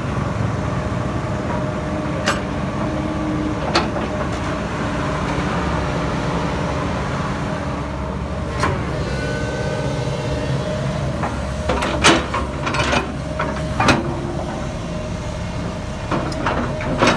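JCB Dieselmax 448 four-cylinder diesel engine of an excavator running steadily, in normal condition after a new common-rail pump and cleaned injectors. A few sharp clicks and knocks sound over it.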